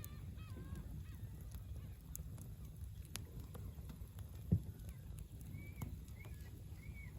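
Campfire crackling with scattered sharp pops over a steady low rumble, while birds call over and over in the background; one louder thump about four and a half seconds in.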